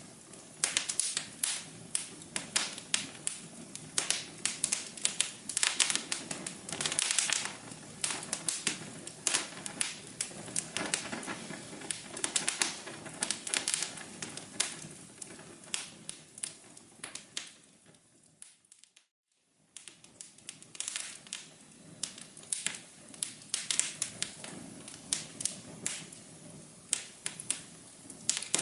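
Wood fire crackling, with many sharp, irregular pops and snaps over a soft hiss. About two-thirds of the way through it briefly fades almost to silence, then comes back.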